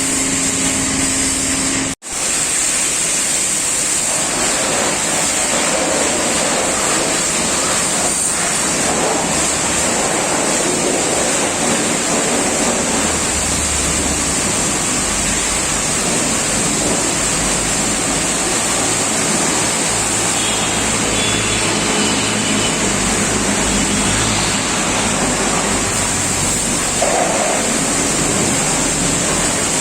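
High-pressure water jet spraying over a dirty scooter to rinse off the dirt: a loud, steady hiss of spray, breaking off for an instant about two seconds in.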